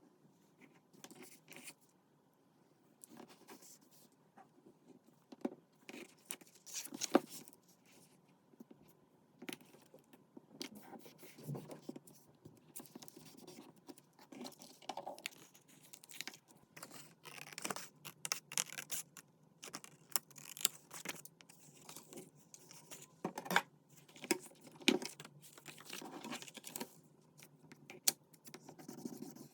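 Paper crafting at a desk: paper and cardstock handled, rustled and torn, with irregular scratches and light taps throughout.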